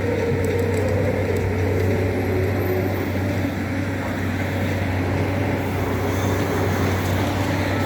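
Loader tractor's engine running steadily, with a whine that falls in pitch over the first few seconds.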